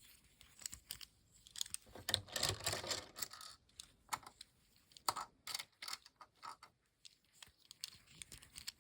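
Small hard plastic model-kit parts clicking and snapping as they are handled and fitted, with a brief stretch of rustling about two seconds in.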